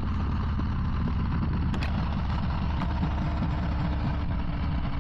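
Harley-Davidson Low Rider ST's Milwaukee-Eight 117 V-twin running steadily at cruising speed, with a steady rush of wind and road noise over it.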